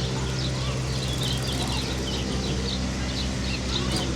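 Small birds chirping in quick, short notes over a steady low hum and a constant background rush.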